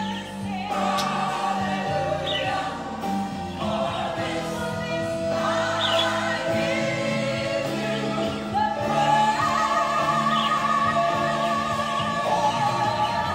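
Gospel choir singing over instrumental accompaniment, with long held notes sung with vibrato.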